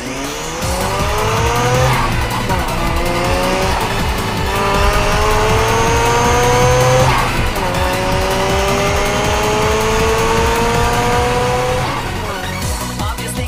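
Mazda RX-7's rotary engine accelerating hard through the gears, its pitch rising in three long pulls with shifts about two and seven seconds in. Electronic music with a steady beat runs underneath.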